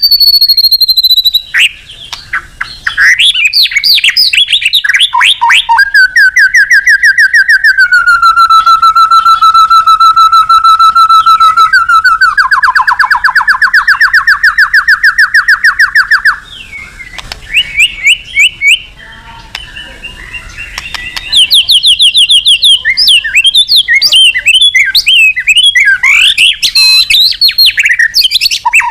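White-rumped shama (murai batu) in loud full song: varied whistled phrases, long held notes and long runs of fast repeated rattling notes. About halfway through it drops to softer, sparser notes for a few seconds, then bursts back into rapid, varied phrases.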